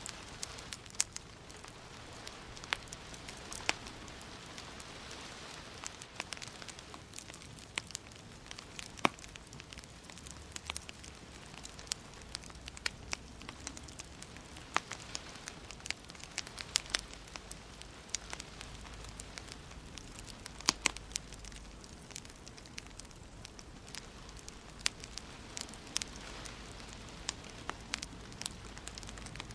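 Wood fire in a fireplace crackling, with frequent sharp, irregular pops over a steady low hiss.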